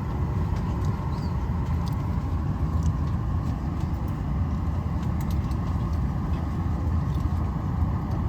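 Steady airliner cabin noise: the low, even drone of the jet engines and airflow heard from inside the passenger cabin, with a few faint ticks.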